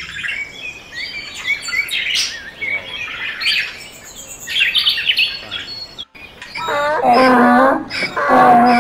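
Birds chirping and tweeting in quick, varied calls. About six seconds in the sound cuts off abruptly, and a louder, steady-pitched call with a wavering tone follows in two long stretches.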